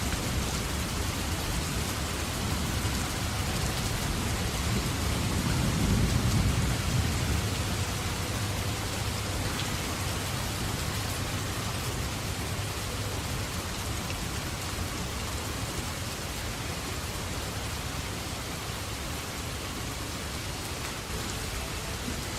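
Steady heavy rainfall, a dense even hiss of drops on leaves and ground. A low rumble of thunder swells in about five seconds in and fades over the next few seconds.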